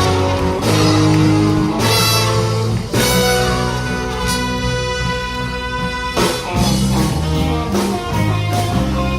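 A big band plays live jazz: brass over a walking bass and drums, holding a long chord in the middle, with guitar showing in the tags.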